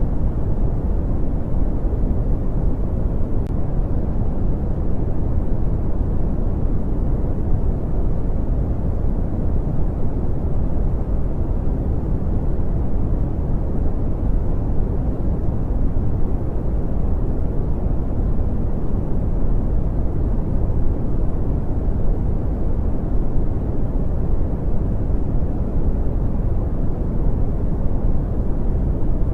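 Brown noise: a steady, deep rumbling hiss with most of its energy in the low end and little above about 1 kHz, unchanging throughout.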